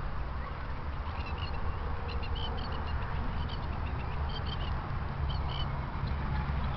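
Wild birds giving short, high chirps, several in quick pairs, over a steady low rumble of wind on the microphone.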